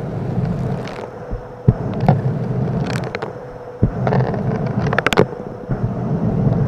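Vacuum cleaner running with a steady hum, with small hard bits, likely rocks, clicking and rattling as they are sucked up, loudest about five seconds in.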